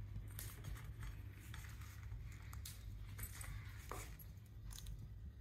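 Faint, scattered small clicks and cracks, a few each second, as an Alexandrine parakeet picks at and bites pumpkin seeds with its beak, over a low steady room hum.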